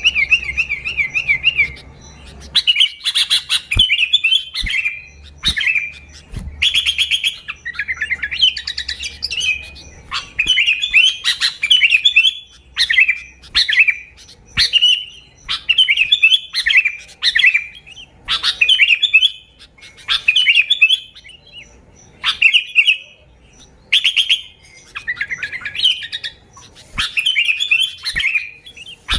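Sooty-headed bulbul (kutilang) singing its own natural song, with no mimicked notes: short, quick-warbling phrases repeated about once a second with brief pauses between them.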